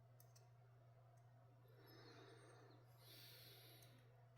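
Near silence: room tone with a faint steady low hum, and two faint soft noises about two and three seconds in.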